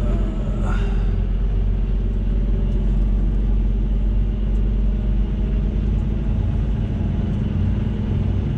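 Semi truck's diesel engine running at low speed, heard from inside the cab as a steady low rumble.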